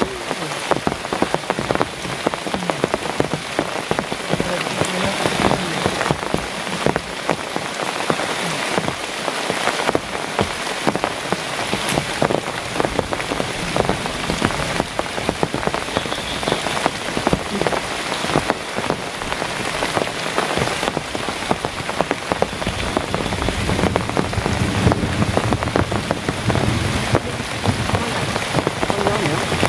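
Heavy rain falling steadily, with dense pattering of drops hitting close by. A low rumble joins in for the last several seconds.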